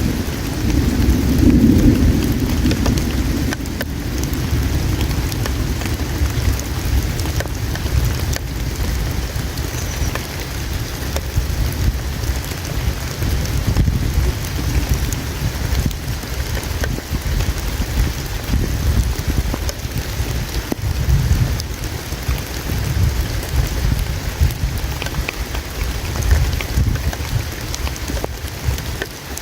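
Campfire crackling with scattered small pops, over the steady rush of flowing river water and a low rumble that is strongest in the first few seconds.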